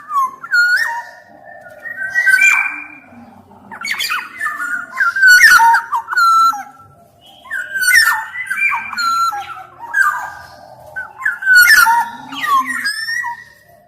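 Black-naped oriole (kepodang emas) singing: repeated phrases of fluting, gliding whistles mixed with harsh, squawky notes, a new phrase about every two to three seconds.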